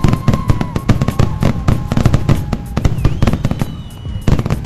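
Fireworks grand finale: a rapid, continuous barrage of bangs and crackles, with several whistles held over the first half and a higher whistle near the end.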